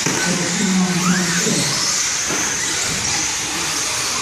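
Radio-controlled short-course trucks running on the track, with a steady high-pitched motor whine and hiss and a short rising whine about a second in as one accelerates.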